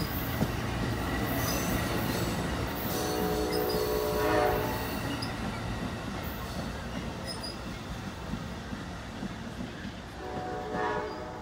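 Amtrak Southwest Chief passenger train running past on the rails, its rumble and wheel noise slowly fading. Two train horn blasts sound as chords: one about three seconds in, lasting over a second, and another near the end.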